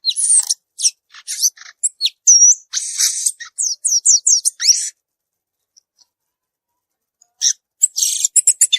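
Violaceous euphonia singing: a fast, jumbled run of varied high chirps, whistles and twitters for about five seconds, a pause of about two seconds, then the song starts again near the end.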